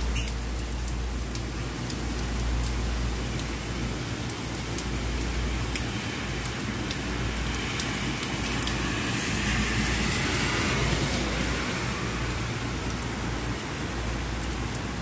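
Steady rain falling on a city street. A car's tyres hiss on the wet pavement, swelling and fading about nine to eleven seconds in. A short sharp click just after the start.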